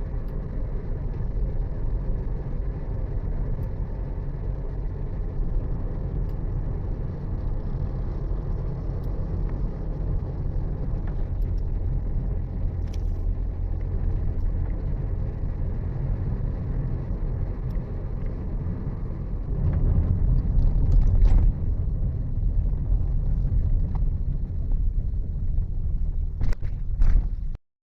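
Steady low rumble of a vehicle driving along a road, growing louder for a second or two about two-thirds of the way through. A few light clicks come near the end, then the sound cuts out abruptly.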